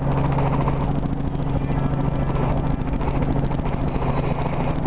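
Helicopter running steadily with a low, even hum as it is lifted off into a hover.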